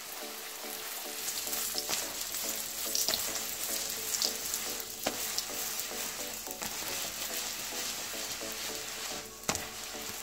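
Potato-stuffed paratha sizzling as it fries in ghee in a nonstick pan, with a steady hiss while a spatula presses and turns it. A few light knocks come through.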